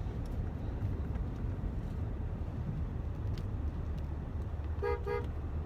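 Car horn tooted twice in quick succession, two short honks, heard from inside the car over the steady low rumble of the engine and road.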